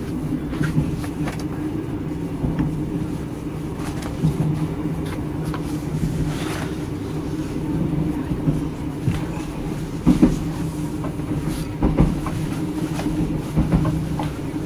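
Running noise inside a Thai sleeper train carriage: a steady low rumble and hum, with a few short knocks about ten, twelve and thirteen seconds in.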